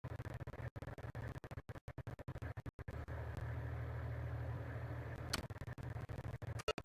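A vehicle engine running steadily with a low hum, the audio cutting out to silence in many short gaps. A sharp click comes about five seconds in, and a few more near the end.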